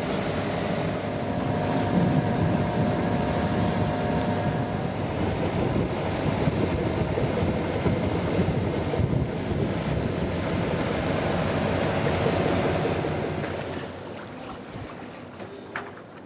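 Wind buffeting the microphone and water rushing along the hull of a yacht under way, with a steady low hum underneath. It fades to a lower level near the end.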